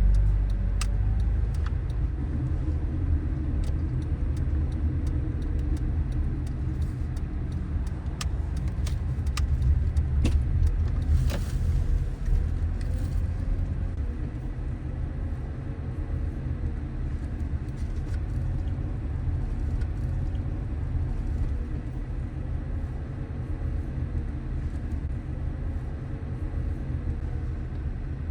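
Car driving on streets: steady low rumble of the engine and tyres on the road, with scattered small clicks and rattles and a brief louder noise about eleven seconds in, after which the rumble eases a little.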